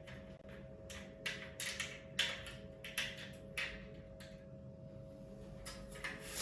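Irregular light clicks and knocks, a dozen or so, the sharpest about two and three seconds in, over a faint steady hum.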